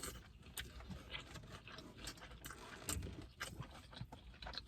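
Faint eating sounds from birria tacos: chewing, with irregular small wet mouth clicks and smacks.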